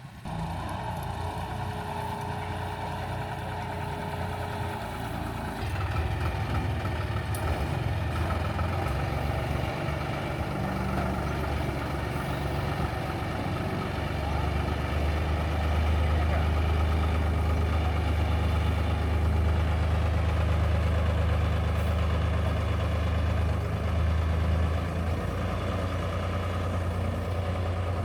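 Engine of a rice harvesting machine running steadily with a deep hum. It gets louder about six seconds in and again around fourteen seconds in.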